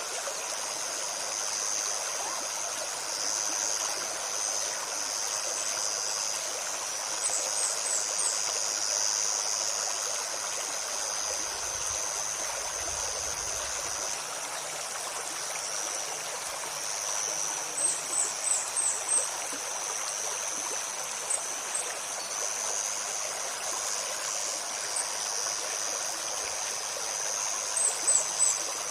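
Forest stream babbling steadily, with a continuous high-pitched insect drone over it. Short runs of quick, high bird chirps, three to five notes each, come in about a quarter of the way in, again past the middle, and near the end.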